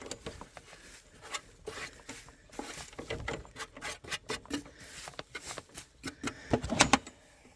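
Irregular rustling and scraping with light knocks, as of cut grass and a bag being handled, with a louder cluster about seven seconds in.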